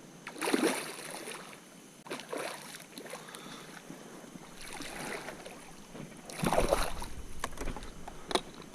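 Water splashing and washing against a fishing kayak in a few short swishes, one every second or two. The loudest comes about six and a half seconds in, with a low rumble of wind or knocking on the microphone.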